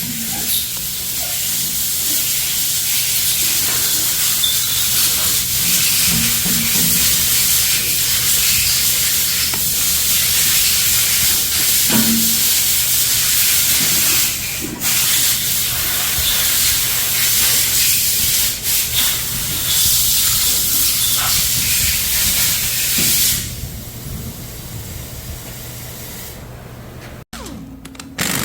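Steady loud hiss over a low steady hum, dropping away about 23 seconds in.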